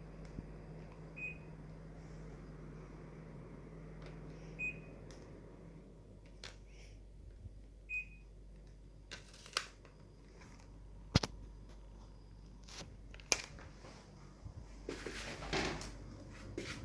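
Short single beeps from a Daikin mini-split air conditioner's indoor unit, three times a few seconds apart, over a low steady hum that stops about six seconds in. Scattered sharp clicks follow in the second half.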